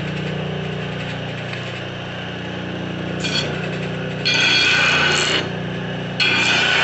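Bench drill press driven by a treadmill motor, running with a steady hum. Louder, rougher stretches come in briefly about three seconds in, again from about four to five and a half seconds, and once more near the end.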